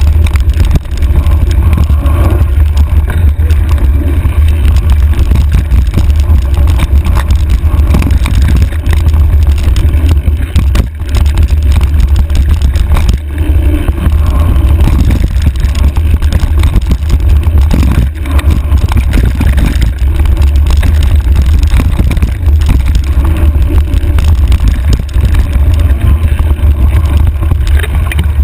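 Heavy wind buffeting on a handlebar-mounted camera during a fast mountain bike descent, a loud, constant low rumble, with the bike's tyres and frame rattling over rough trail.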